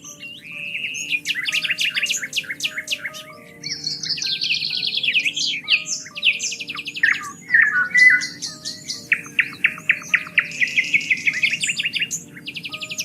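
Songbirds singing in a dense chorus of rapid trills and repeated chirps, several birds overlapping, over soft background music of slow held notes.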